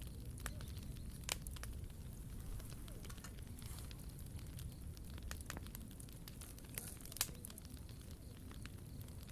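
Wood fire crackling, with scattered sharp pops, the loudest about a second in and again about seven seconds in, over a steady low rumble.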